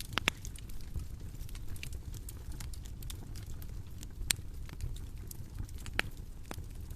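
Bonfire crackling: a steady low rumble of burning wood with scattered sharp pops and snaps, the loudest about a quarter second in, at about four seconds and at about six seconds.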